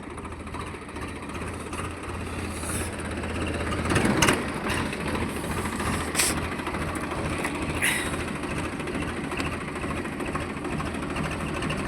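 Swaraj tractor's diesel engine running steadily, with a few brief sharp noises over it.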